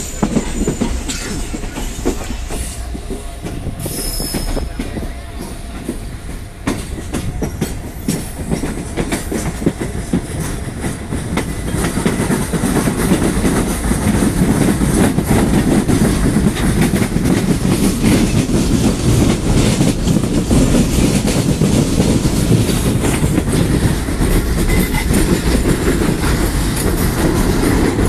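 Train running at speed, heard from on board: a steady rumble with the rapid clicking of wheels over the track. The sound grows clearly louder about twelve seconds in.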